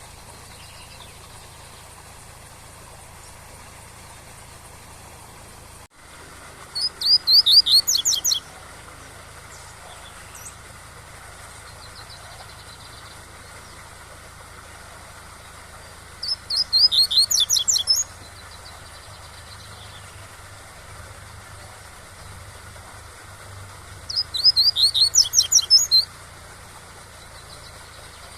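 Double-collared seedeater (coleiro) singing its tui-tui song three times, each phrase a quick run of about eight or nine repeated high notes lasting about two seconds, coming roughly every nine seconds. A steady waterfall rush runs beneath.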